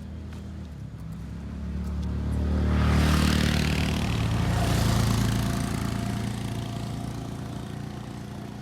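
A motor vehicle passing close by: its engine hum and road noise swell over a few seconds, peak around the middle, then fade away.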